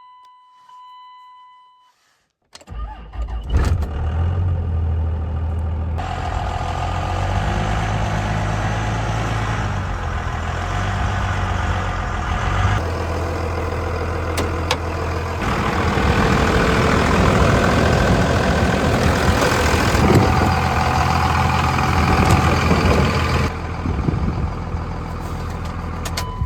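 A short electronic chime, then the farm truck's 24-valve engine cranks and starts about three seconds in. It runs on loudly, idling with some changes in pitch and level.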